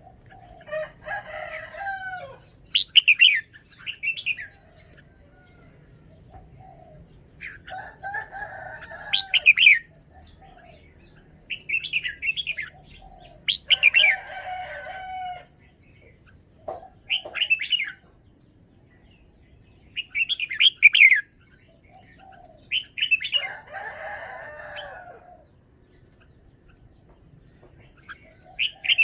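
Red-whiskered bulbul singing short, bright, warbled phrases of quickly changing whistled notes, about seven bursts separated by pauses of one to a few seconds.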